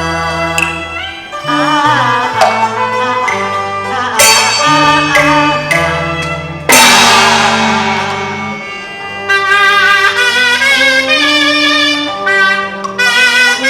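Instrumental interlude of a Cantonese opera accompaniment band: a bass line under melodic lines, with a loud percussion crash about halfway through that rings away.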